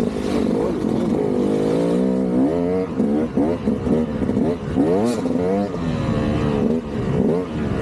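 KTM 200 two-stroke dirt bike's single-cylinder engine revving up and down as it is ridden, its pitch rising and falling with each throttle change, with a run of quick blips around the middle.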